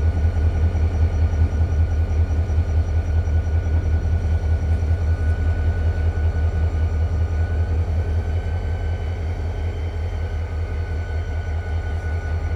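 Diesel locomotive of a freight train, NS 8098 (a GE ES44AC), running with a deep, rapidly pulsing rumble and a thin, steady high whine over it.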